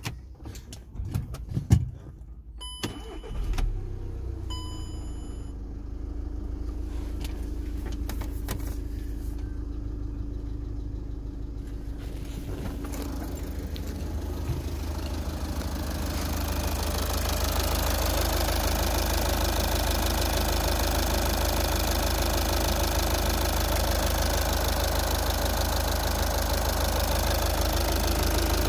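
VW Passat B6's 2.0 TDI CBAB four-cylinder diesel, with 510,000 km on it, started and left idling steadily. A few knocks and two short electronic beeps come before it catches, and the running grows louder about halfway through.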